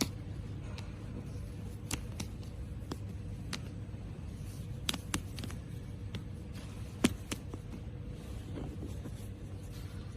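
CNC oscillating-knife cutting machine running: a steady low hum with a thin steady tone, broken by scattered sharp clicks at irregular intervals, the loudest about seven seconds in.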